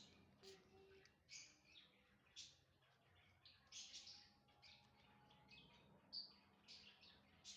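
Fischer's lovebirds chirping faintly: a run of short, high chirps, some single and some in quick clusters.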